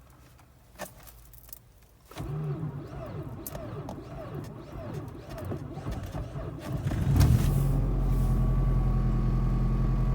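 Suzuki J20A four-cylinder engine cold-started at −28 °C: after a couple of clicks the starter cranks it with a pulsing rhythm for about five seconds, then the engine catches about seven seconds in and runs at a steady idle.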